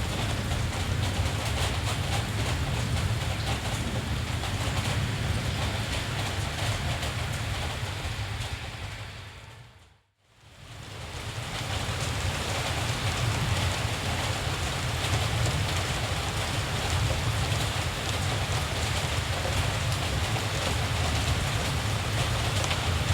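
Steady rain falling, an even hiss with a low rumble underneath. About ten seconds in it fades out to silence and quickly fades back in.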